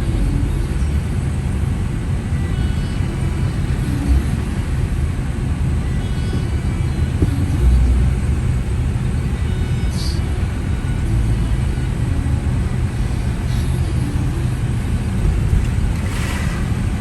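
Steady low rumble of a car driving, with road and engine noise throughout and a few faint brief sounds over it.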